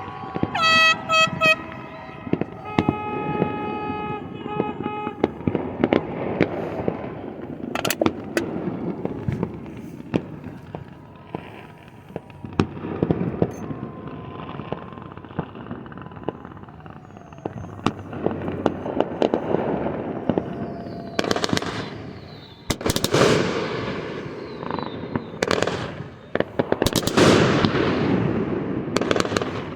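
Fireworks popping and crackling, with a run of loud bursts near the end, each trailing off in a crackle. A horn sounds in short toots and then a held tone in the first few seconds.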